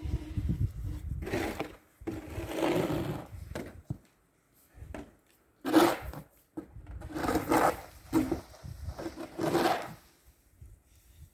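Snow shovel scraping and pushing snow, a run of separate strokes of half a second to two seconds each with short pauses between them.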